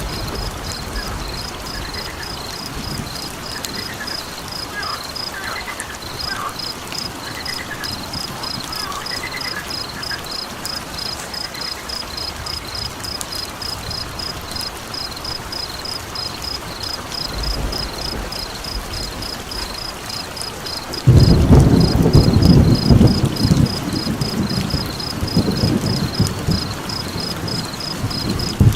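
Steady rain with a train of high, evenly spaced chirps, a few a second, running throughout. A loud low rumble of thunder breaks in suddenly about three-quarters of the way through and swells again near the end.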